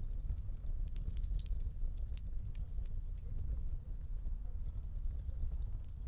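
Fireplace fire crackling: many small, irregular sharp pops over a low, steady rumble of burning flames.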